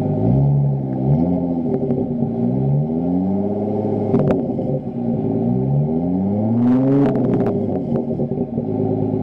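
Chrysler 300M Special's 3.5-litre V6 exhaust, revved in repeated short blips, its pitch rising and falling back to idle each time. There are a few sharp clicks around the middle.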